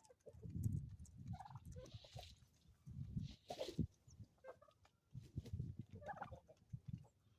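Domestic turkey gobbling, two short warbling calls about a second and a half in and again near the end, among farmyard fowl. A low rumble comes and goes underneath, and there is a brief hiss in the middle.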